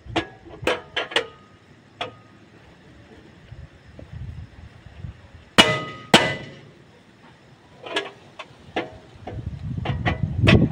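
Metal tools clinking and striking metal parts, a series of sharp clinks with two loud ringing metallic strikes a little past halfway. A low rumble builds near the end.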